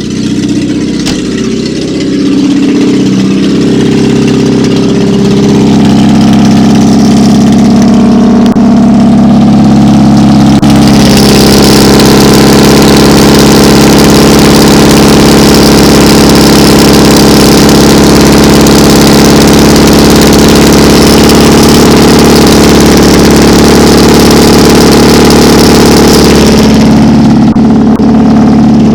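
Lada 21099 Samara engine running through an open exhaust with no muffler, very loud. It is revved up over several seconds, held at high revs for about a quarter of a minute, then let fall back toward idle near the end.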